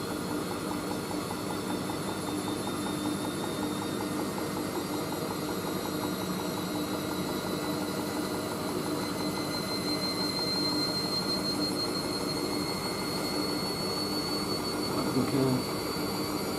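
Hoover Whisper 1600 front-loading washing machine in an intermediate spin (up to 400 rpm), its drum turning with an unbalanced load: a steady motor hum with a high whine that slowly rises in pitch from about halfway as the drum speeds up. A brief louder noise comes near the end.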